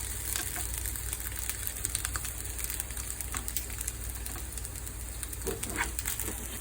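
Cooking oil sizzling in a hot frying pan: a steady hiss with a few faint pops, over a low steady hum.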